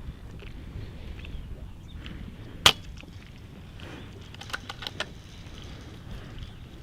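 A single sharp shot from a suppressed Daystate Red Wolf Safari .22 PCP air rifle about two and a half seconds in. A few quieter clicks follow about two seconds later, over a low rumble of wind.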